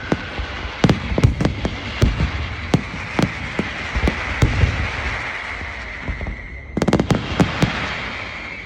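Fireworks display: a fast, irregular run of sharp bangs over continuous crackling, with a steady high whistle behind them and a dense cluster of bangs about seven seconds in.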